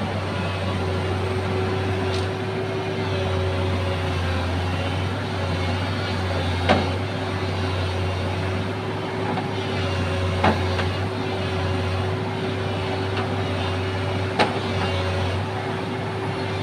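Excavator engine running steadily, with three sharp knocks about four seconds apart.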